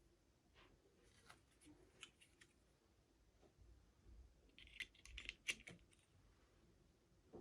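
Faint clicks, taps and crinkles of small toy packaging being handled and opened, with a quick flurry of crackly clicks about five seconds in.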